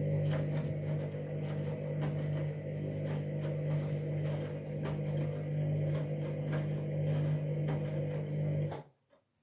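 Candy washing machine running with a steady low hum and a few faint clicks, then cutting off abruptly near the end.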